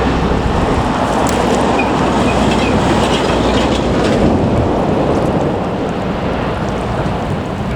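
Steady, loud rumble of an arriving Boeing 737 MAX 8's jet engines.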